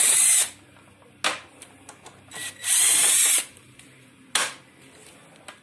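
Power tool spinning out the brake caliper mounting bolts on a Yamaha FZS600 motorcycle, in two short runs under a second each. There is a sharp click in between and another near the end.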